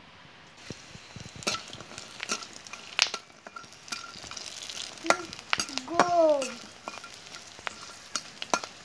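Potato chips frying and puffing up in hot oil in a black kadai, sizzling with many scattered sharp crackles and the scrape of a metal spatula stirring them. About six seconds in, a short voice cries out, falling in pitch.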